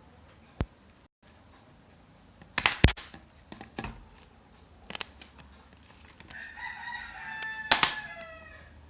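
A rooster crowing once, about two seconds long, starting past the middle and falling in pitch at its end. Sharper knocks and clicks of handling, loudest just before the crow ends, come several times.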